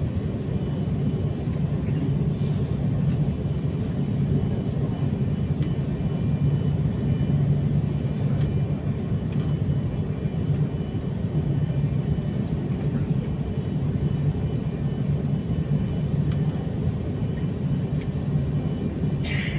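Jet airliner's engines and airflow as heard from inside the cabin around takeoff: a steady low rumble that holds an even level throughout.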